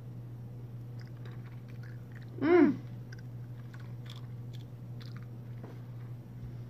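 Close-up mouth sounds of a person chewing a warmed cookie with pretzels and toffee in it: small wet clicks and crunches over a steady low hum. About two and a half seconds in comes a short, loud voiced "mm" that rises and falls in pitch.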